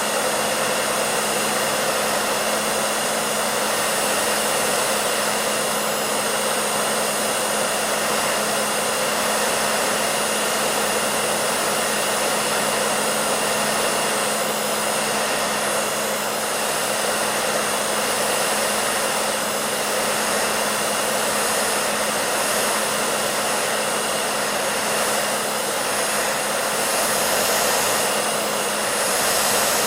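Hair dryer running steadily: an even rush of blown air with a constant motor hum underneath, used as white noise for sleep.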